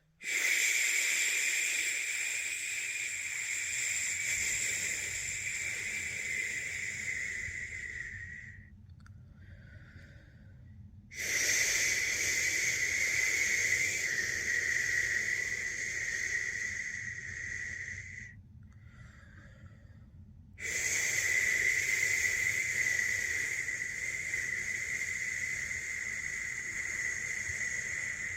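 A person shushing a long 'shhh' three times, each held for about seven to eight seconds, with a short, quiet breath between them. This is the steady shushing used to soothe a newborn to sleep.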